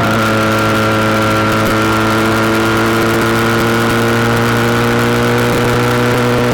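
SBM400s motorcycle engine running steadily, its pitch settling slightly in the first second and then holding even.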